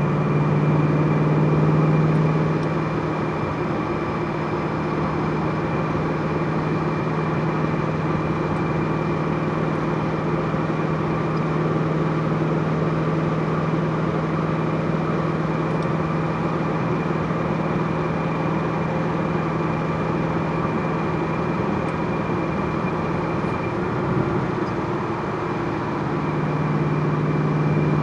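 A car engine running at a steady speed with a constant low hum, plus a faint steady high whine; the hum eases for a moment near the end, then comes back.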